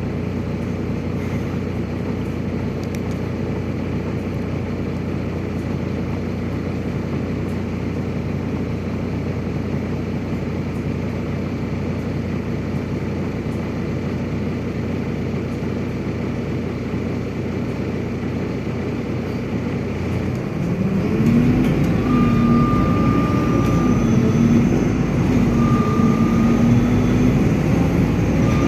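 City bus engine and drivetrain heard from inside the cabin: a steady running hum, then about 21 s in the bus grows louder with a whine that steps up and down in pitch as it pulls away and changes speed.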